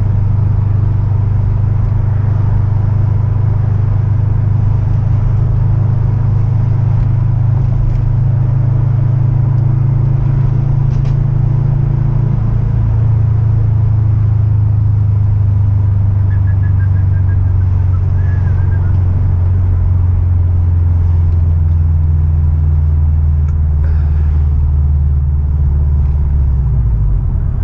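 Car engine running with a steady low rumble, dropping a little in pitch about halfway through and again near the end.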